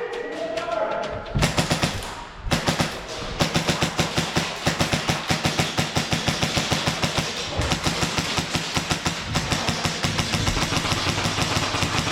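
Airsoft guns firing on full auto: two short bursts, then long, rapid strings of shots with a brief break about halfway through.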